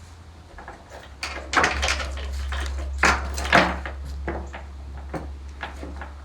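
A bolted door being rattled and knocked by a sheep trying to open it. There is a run of sharp clatters about a second and a half in and two more around three seconds in, then lighter knocks.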